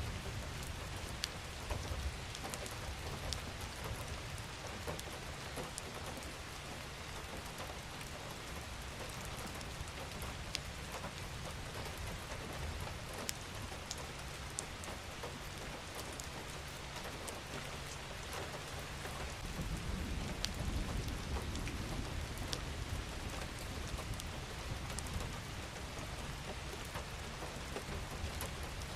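Steady rain falling, an even hiss with scattered individual drop ticks. A low rumble swells briefly about two-thirds of the way through.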